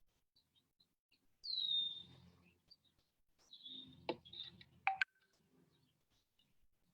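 Birds chirping, mostly faint short calls with two louder falling chirps. Two sharp clicks about four and five seconds in.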